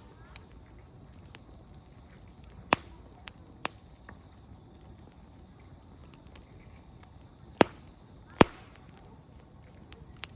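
Wood campfire crackling: scattered sharp pops of burning firewood, the two loudest close together near the end.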